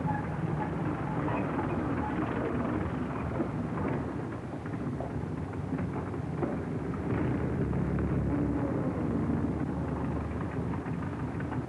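Motor vehicle engine running as it drives up, a steady rumble with a low drone that shifts slightly in pitch, heard through a worn, hissy early sound-film track.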